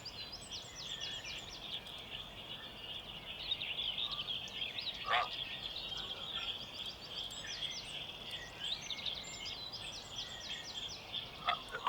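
Dawn chorus of many birds singing together: a dense, steady chatter of quick, repeated high notes, with one brief louder call about five seconds in.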